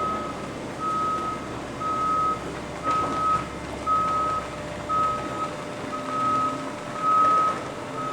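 Electronic backup-alarm beeper sounding a steady high beep, about half a second on and half a second off, once a second, over the low noise of machinery.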